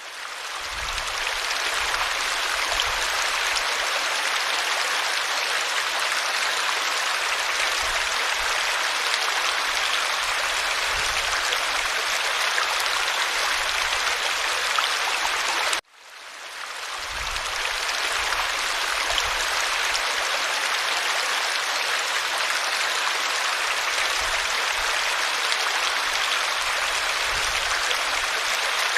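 Creek water running over stones in a steady, even rush. It fades in at the start, cuts out abruptly about halfway through, and fades back in.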